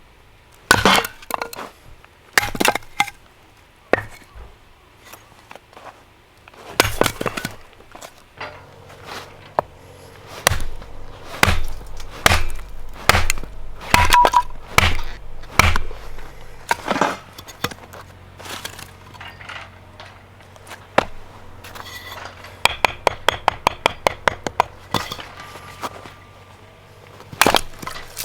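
A series of sharp knocks and cracks, irregularly spaced. Near the end comes a fast run of about five clicks a second.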